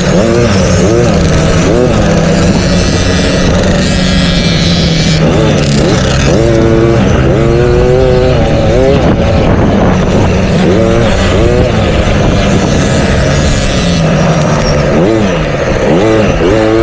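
A pack of motocross bikes racing, their engines revving up and down through the gears, with many overlapping rising and falling pitches.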